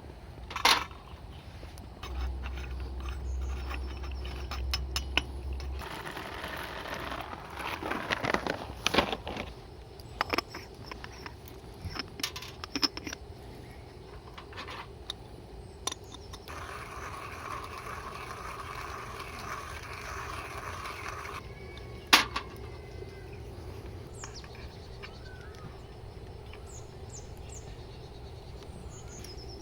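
Camp cookware being handled: scattered metallic clinks, scrapes and knocks, with one sharp knock about two-thirds of the way through and a steady hiss lasting about five seconds in the middle.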